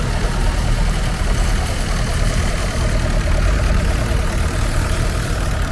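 Vintage tractor engines running at low speed, a steady low rumble. A faster rhythmic engine beat stands out in the middle.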